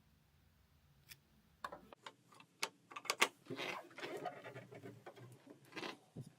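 Portable air conditioner box contents being handled, with light clicks and knocks and rustling. Scattered at first, then busier from about three and a half seconds in.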